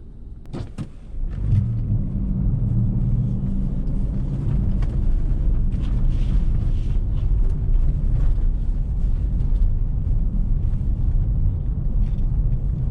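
Car engine and tyre noise heard from inside the cabin while driving on a snowy road, with a couple of short clicks about half a second in. The low rumble grows sharply louder about a second and a half in, as the car picks up speed, then runs steadily.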